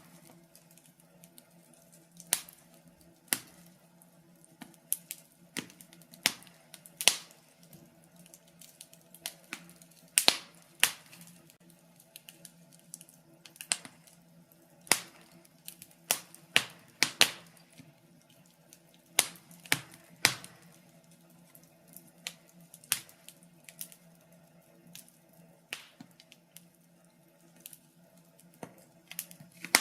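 Wood fire burning in a fireplace, crackling with irregular sharp pops and snaps about once a second, some in quick clusters, over a faint steady low hum.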